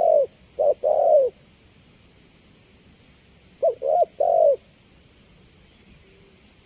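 Spotted dove (tekukur) cooing: a phrase of short, low coo notes ending about a second in, then a second three-note coo near the middle. A steady high hiss runs underneath.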